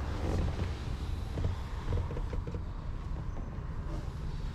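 Converted ambulance's engine idling with a steady low rumble.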